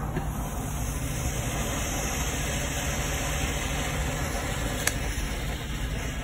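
An SUV's engine running steadily, a constant low rumble, with one short sharp click about five seconds in.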